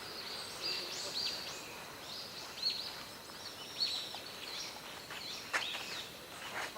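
Small birds chirping over and over in short high notes, with a single sharp knock about five and a half seconds in.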